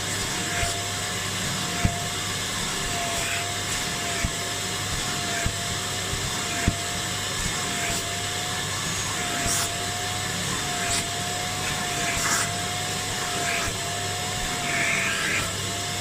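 Kärcher Puzzi 10/1 spray extractor running steadily under suction, its motor whine wavering slightly in pitch, with scattered sharp clicks and a few brief hissing bursts.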